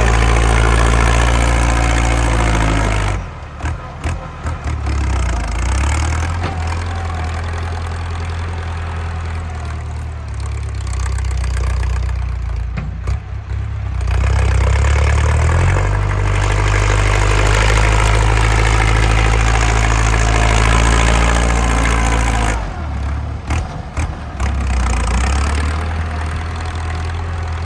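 Ford 6640 tractor's diesel engine running with a loud exhaust, working under load. Twice, about three seconds in and again near the end, the sound drops away and the engine note then climbs back up.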